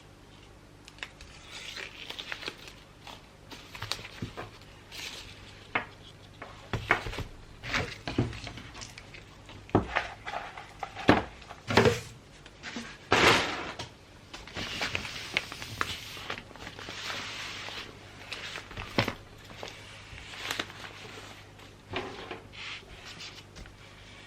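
Gift-wrapping handling sounds: irregular taps, clicks and knocks of objects being set down and handled, with wrapping paper rustling and crinkling, the longest and loudest rustle about halfway through.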